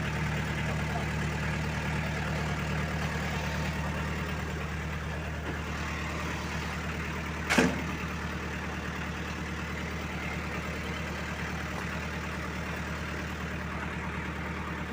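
A tow truck's engine runs steadily at idle. About halfway through there is one sharp clank with a brief ring.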